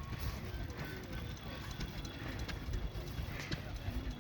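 Outdoor ambience of faint music and distant voices over a steady low rumble, with a few scattered clicks.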